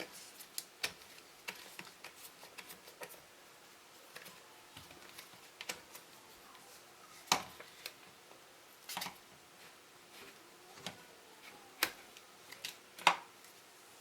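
Irregular light clicks and knocks of objects being handled, with three sharper, louder knocks in the second half.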